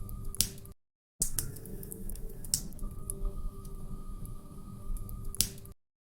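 Wood fire crackling over a low rumble, with scattered small clicks and three louder pops. The sound cuts out to dead silence twice, for about half a second each: about a second in and just before the end.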